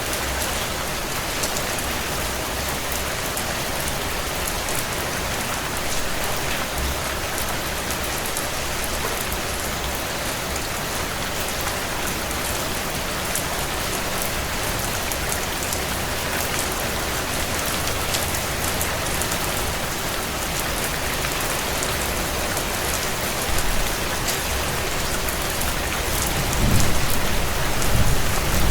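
Steady heavy rain on window glass, with scattered light crackles of a wood fire. A low rumble swells near the end.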